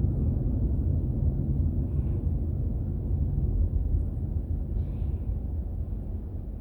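Steady low rumble of a car on the move, road and engine noise, growing a little quieter near the end.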